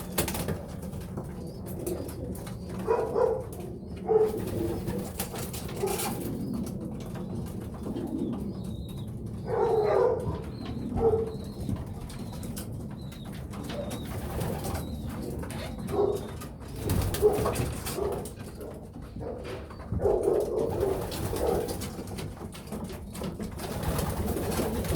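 Young racing pigeons cooing, a coo every few seconds with several close together near the middle and near the end, over scattered light taps and knocks.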